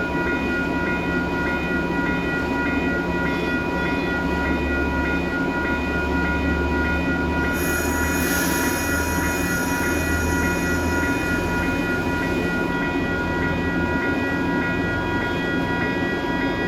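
A train running by on the tracks: steady low rumble with several constant high whining tones over it, and a burst of hiss about halfway through.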